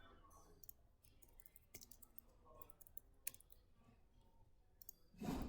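Faint, irregular clicks of a computer mouse and keyboard over quiet room tone, with a short louder sound just before the end.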